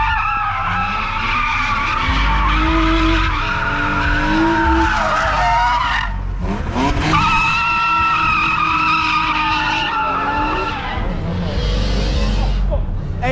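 Car tyres squealing long and steady as the car spins them, with the engine running hard underneath; the squeal breaks off briefly about six seconds in and starts again.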